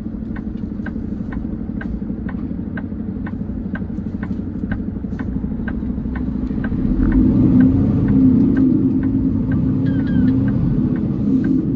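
Big-rig diesel engine droning inside the Peterbilt 389's cab, with the turn signal ticking evenly about twice a second as it takes the exit. The engine grows louder about seven seconds in.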